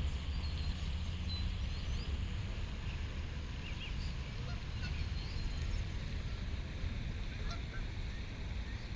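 Geese and goslings calling now and then, short high chirps scattered over a steady low rumble.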